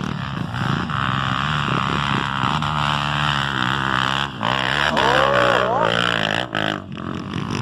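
Off-road trail motorcycle engines running hard and revving, rising and falling in pitch, as the bikes come up a hill. Voices can be heard behind them.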